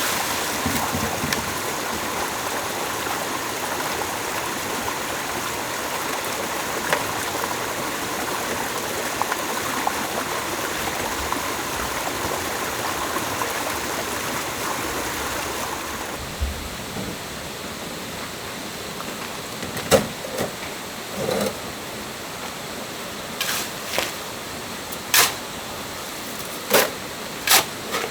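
Stream water rushing steadily; about sixteen seconds in it gives way to a quieter background with a run of sharp, irregularly spaced knocks.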